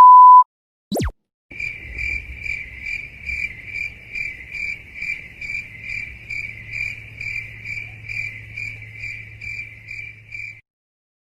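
Crickets chirping in an even rhythm, about two and a half chirps a second, over a faint low hum: the 'awkward silence' crickets sound effect. It is preceded by the loud tail of a steady beep and a quick falling swoosh, and another falling swoosh comes at the very end.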